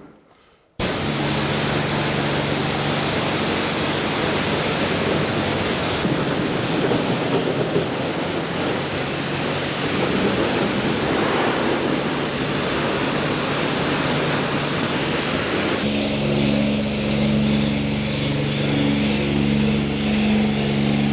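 Pressure washer spraying water: a steady loud hiss of spray over the low hum of the washer's pump motor, starting suddenly about a second in. Near the end the motor hum grows louder and pulses while the hiss softens.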